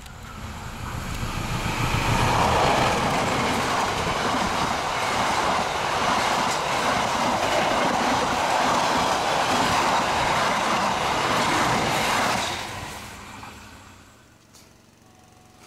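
Passenger train passing at speed, its wheels running on the rails in a steady rumble with some clickety-clack. The sound builds over the first two seconds, holds for about ten seconds, then fades away over the next couple of seconds.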